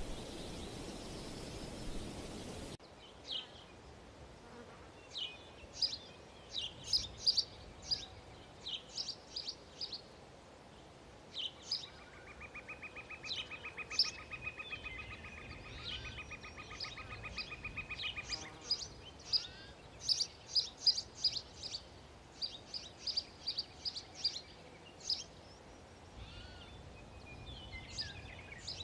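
Small birds calling with high, thin chirps in quick runs, with a long, evenly pulsed buzzing trill for about six seconds in the middle. A steady hiss stops suddenly about three seconds in, before the chirping starts.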